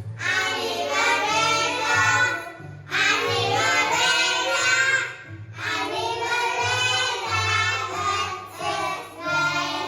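A children's song: a child's voice singing a few phrases, with short breaks, over a backing track with a repeating bass line.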